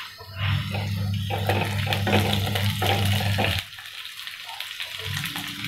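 Onion and whole dried red chillies sizzling in hot oil in a pan, with a spatula stirring and scraping them around. A steady low hum underneath stops about three and a half seconds in.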